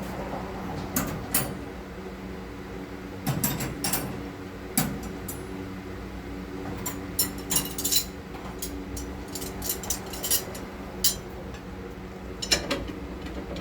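Metal tools clinking and clattering: sockets being picked out and tried on a lower control arm bolt to find its size, a couple of dozen sharp clinks scattered through, over a steady low hum.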